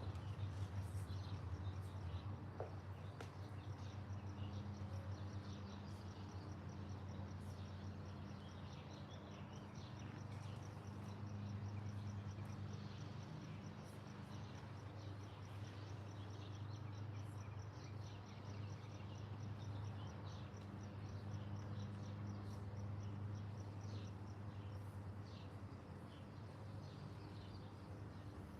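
Garden birds chirping in short, scattered calls over a steady low hum, with a faint, high, evenly pulsed trill running underneath.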